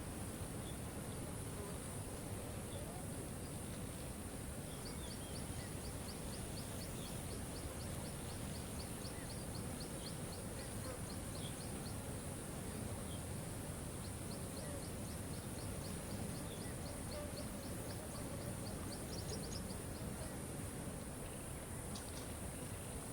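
Waterfall rushing steadily, under a continuous high insect-like drone. Through the middle, two runs of rapid high chirps repeat about four to five times a second.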